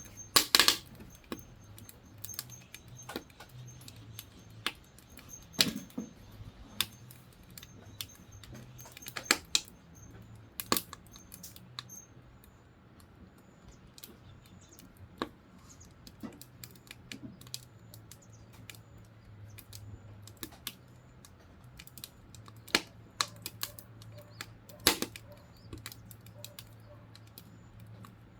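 Firewood crackling as it burns in a camping wood stove: irregular sharp cracks, a few much louder than the rest, over a low steady hum.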